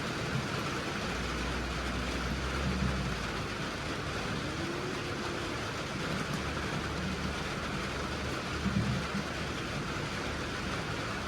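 Steady rain noise over the low hum of a running farm vehicle engine.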